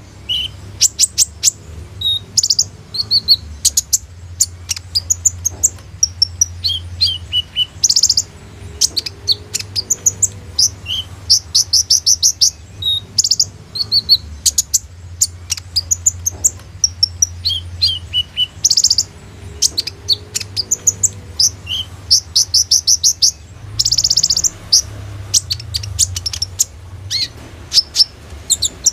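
Kolibri ninja (olive-backed sunbird) singing: a fast, varied run of high chirps, short trills and whistled notes with brief pauses, its song full of mimicked calls of other birds.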